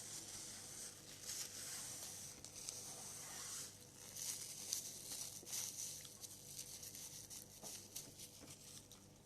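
Cooked crab being pulled apart and its shell picked at by hand: irregular crackling, tearing and crinkling with small clicks.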